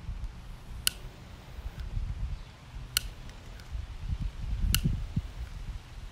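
Three sharp clicks, a second or two apart, over an uneven low rumble.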